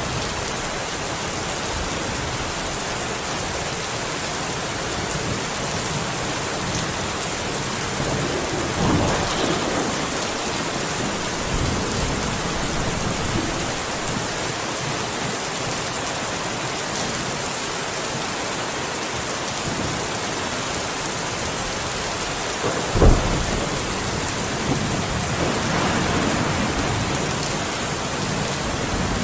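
Steady rain falling, with thunder: a rumble about nine seconds in, a sharp, loud crack about 23 seconds in, and more rumbling a few seconds after.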